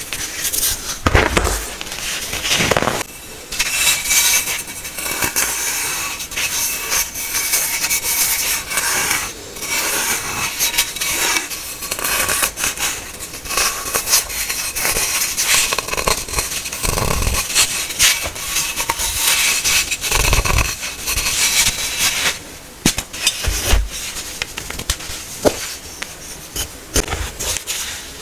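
Hard baking soda being crushed and scraped: continuous crunching and gritty crackling, with a few low thuds along the way.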